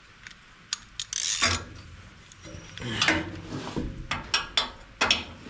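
Metal hand tools working bolts on a round baler: sharp metallic clicks and short spells of scraping and ratcheting, about a second in and again about three seconds in, with a few single clicks near the end.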